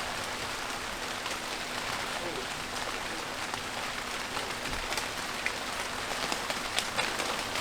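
Heavy rain falling steadily, with sharper drips striking now and then in the second half.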